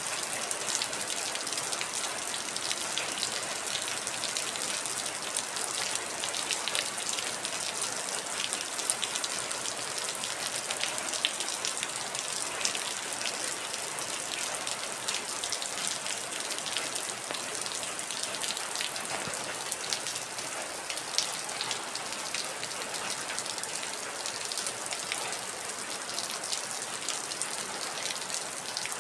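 Heavy rain falling steadily, a dense even hiss with many individual drops striking a surface as short sharp ticks.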